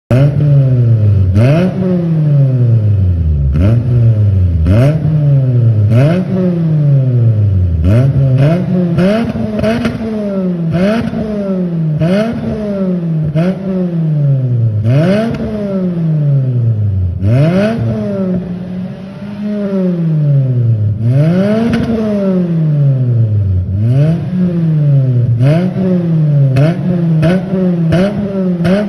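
Toyota Celica ZZT231's four-cylinder engine revved in quick, repeated throttle blips through a one-off exhaust: an HKS Silent Hi-Power rear section with its silencer drum cut out. The pitch rises sharply and falls back about every one to two seconds, with a short lull near the end.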